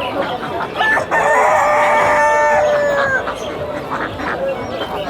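A rooster crowing once: a single long call of about two seconds, starting about a second in and dropping slightly in pitch as it ends.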